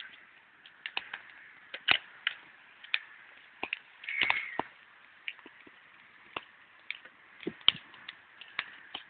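Wood campfire crackling: irregular sharp pops and snaps, one or two a second, with a louder cluster of crackles about four seconds in.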